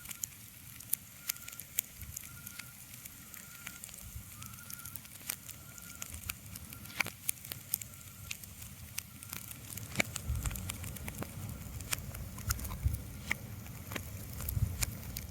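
Fire crackling: irregular sharp pops and snaps over a soft hiss. A low rumble joins about ten seconds in.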